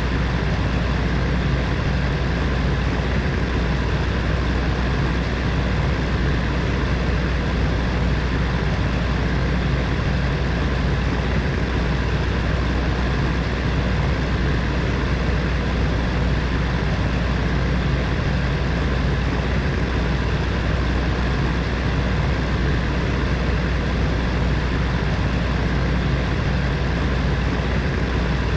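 Electric heater fan running steadily: a continuous low hum with an even whooshing rush of air and no change in speed.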